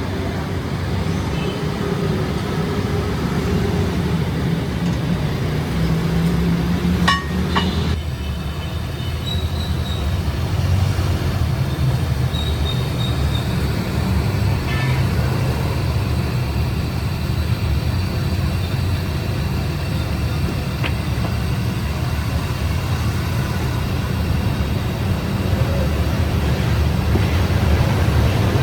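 Steady low mechanical drone of running machinery, with a brief clattering burst about seven seconds in.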